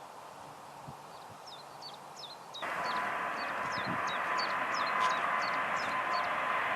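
A small bird chirping over and over in short, quick notes. About two and a half seconds in, a steady jet-engine rush with a high whine cuts in abruptly and carries on under the chirps.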